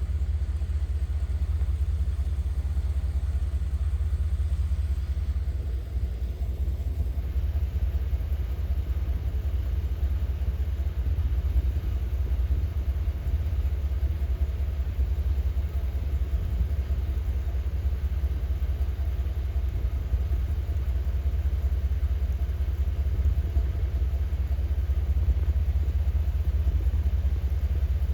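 Blizzard wind buffeting the microphone: a steady low rumble.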